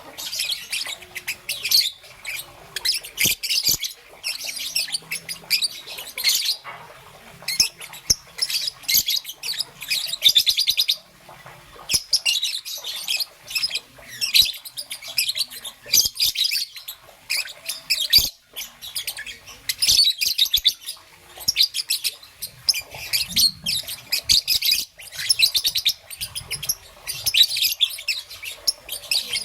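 Young peach-faced lovebird chirping in fast, almost continuous runs of high chirps, with short pauses about seven and eleven seconds in.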